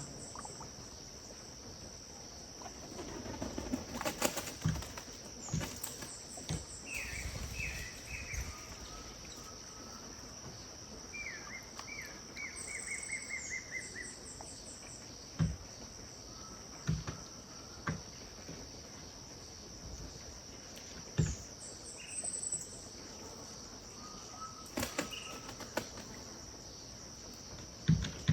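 Riverbank ambience: a steady high insect drone throughout, with birds calling in short runs of quick repeated notes, the longest about a third of the way through. Scattered soft low knocks throughout, several of them in the second half.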